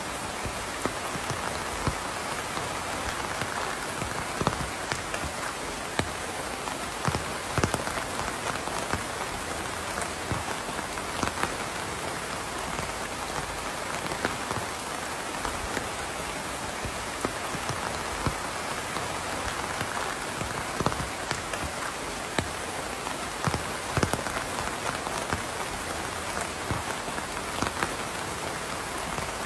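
Steady rain falling: an even hiss with frequent sharper drops striking close by, scattered at random.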